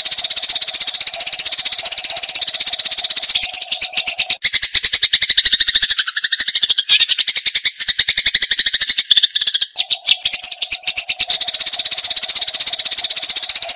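Eurasian tree sparrows in a fast, unbroken fighting chatter, many short chirps a second. From about four and a half seconds in to near ten seconds the chatter drops lower in pitch, and a steady low hum heard under it at the start and end drops out.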